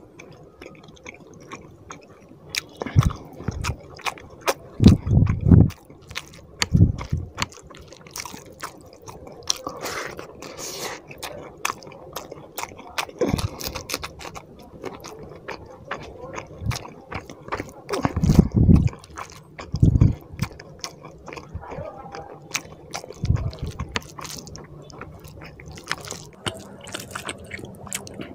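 Close-up eating sounds of a mouthful of fish curry and rice: wet chewing and lip-smacking with many quick mouth clicks, and a few short dull thumps scattered through.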